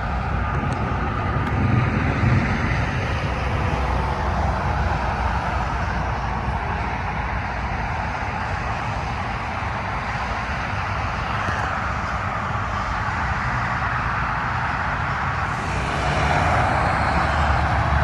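Steady road noise from traffic passing on a nearby highway, growing louder near the end.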